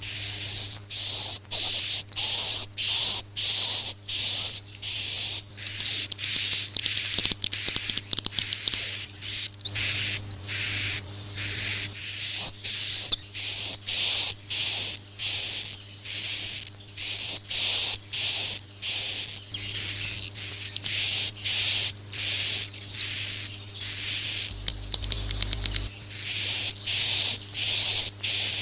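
Recorded edible-nest swiftlet calls, the kind played as a roosting lure ('suara inap') for swiftlet houses. High, hissy chirps repeat about twice a second, with a few sliding chirps mixed in, over a faint low hum.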